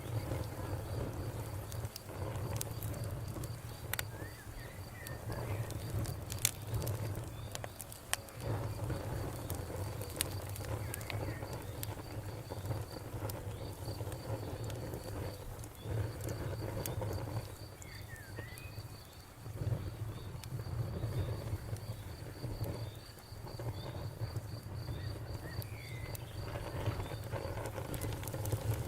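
Campfire crackling, with scattered sharp pops over a low rumble of flames that swells and fades. A cricket chirps in a steady rapid trill through most of it, stopping near the end.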